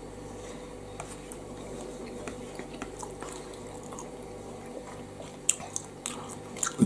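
A man chewing a mouthful of soft pasta bake, with faint wet mouth clicks and a few sharper smacks near the end. A steady low hum of room noise runs underneath.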